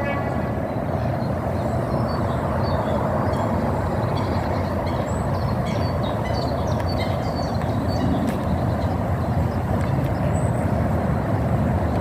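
Magic Mobility Extreme X8 off-road powerchair's electric drive motors and tyres running steadily on the move. Birds chirp faintly and briefly in the middle.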